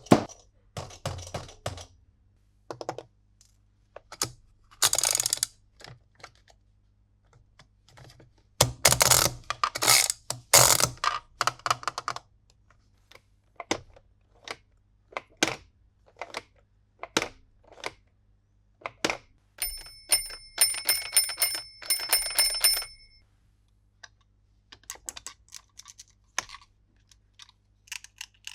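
Hard plastic toy parts and packaging being handled, with irregular clicks and taps and louder rustling in a few stretches. About two-thirds of the way in there is a quick run of clicks with a high ringing tone.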